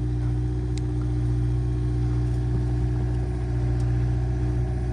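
Heavy equipment engine running steadily at a constant speed, a low even hum with no change in pitch, and a couple of faint ticks.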